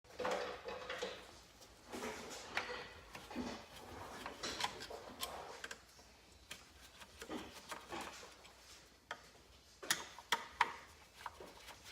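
Irregular clicks, taps and light knocks of hand tools and small metal parts being handled on a motorcycle engine, with a few sharper ringing clinks about ten seconds in.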